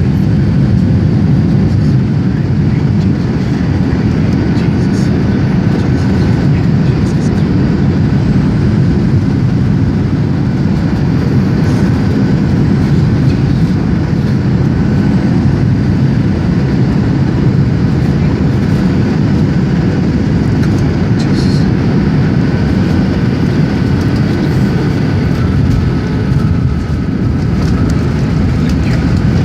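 Boeing 737-700 cabin noise: a steady, loud rumble of the CFM56-7B jet engines and airflow, with a faint steady whine over it.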